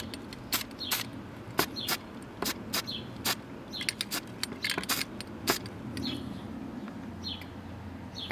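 Small birds chirping now and then, with a string of sharp clicks, irregular, two or three a second, over the first five seconds or so.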